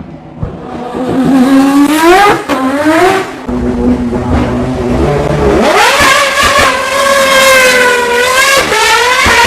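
Race car engine accelerating hard at high revs. The pitch climbs steeply twice in the first three seconds, settles to a lower note, then rises sharply again about halfway through and holds high, with a brief dip near the end as it shifts.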